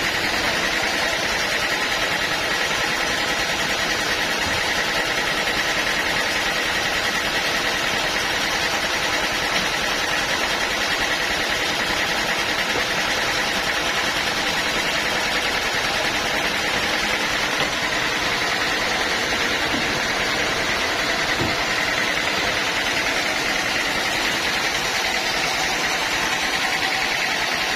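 Sawmill running steadily, an even machine drone with a constant pitched tone.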